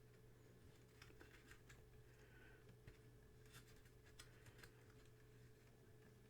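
Near silence with a low steady hum and faint scattered clicks and taps of small tape-deck parts being handled, a few at a time.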